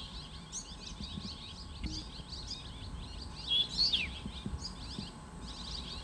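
Several small songbirds chirping and twittering, with many quick, high, overlapping notes.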